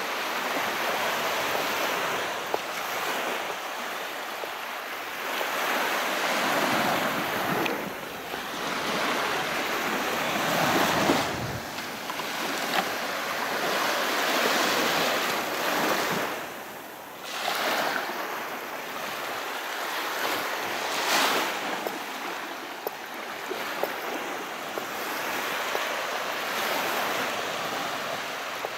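Calm sea waves washing in and out on the shore, a steady hiss of surf that swells and ebbs every few seconds, with one stronger wave about eleven seconds in.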